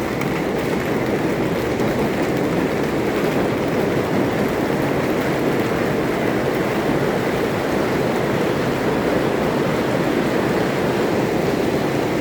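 Hailstorm: hail and heavy rain pounding down in a dense, steady noise with no let-up.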